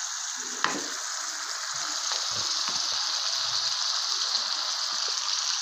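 Liver pieces sizzling steadily as they fry in masala in an aluminium pan, with one sharp tap a little over half a second in.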